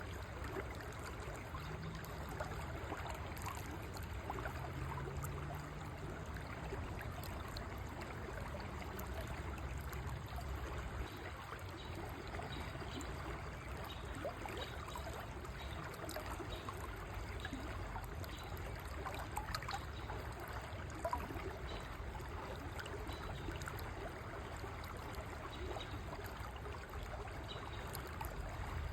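A river flowing steadily, with continuous running and trickling water.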